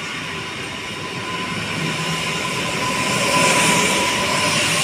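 Koleje Mazowieckie electric multiple-unit train rolling past along the platform. Its wheels rumble on the rails under a steady whine, and the sound grows louder a little past halfway as the cars go by.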